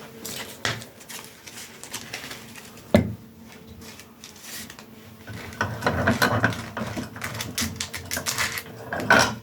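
Irregular clicking and clattering of small hard objects being handled, with one sharp knock about three seconds in and a denser run of rapid clicks and rattles from about halfway.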